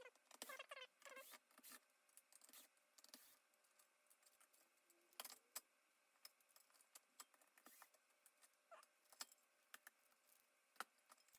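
Faint scattered clicks and taps, with a few quick squeaky chirps in the first second and a half.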